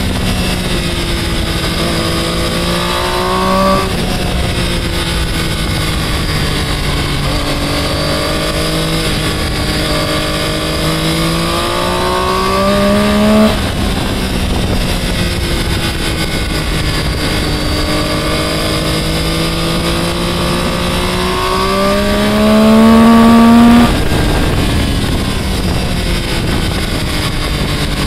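Triumph sport bike engine pulling through the gears: its pitch climbs slowly, then drops at a gear change about four seconds in, again near thirteen seconds, and again near twenty-four seconds. It is loudest just before the last change. Steady wind rush is heard throughout.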